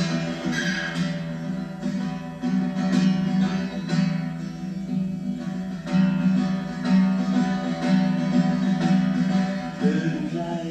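Instrumental break in a live song: a guitar strumming chords, with no voice.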